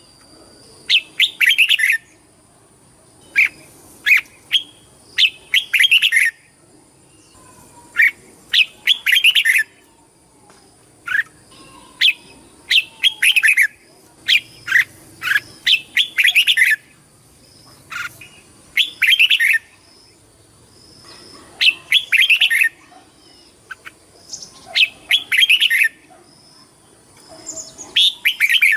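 Red-whiskered bulbul singing: short, loud phrases of quick, warbling notes, repeated every two or three seconds.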